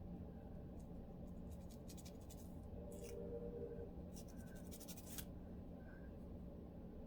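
Lice comb teeth scratching across a dry, flaky scalp, loosening dandruff, in quick runs of short strokes. A faint steady low hum runs underneath.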